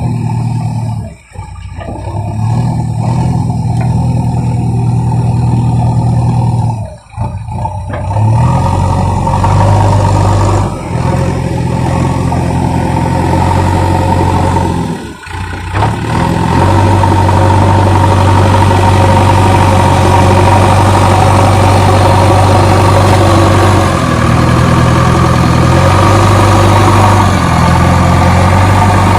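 JCB backhoe loader's diesel engine running, its pitch stepping up and down as the revs change while it works. The sound drops out briefly three times in the first half.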